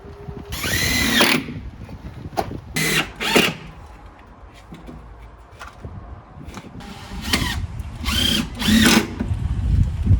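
Cordless drill driving screws into timber formwork, in several short bursts, each spinning up and winding down.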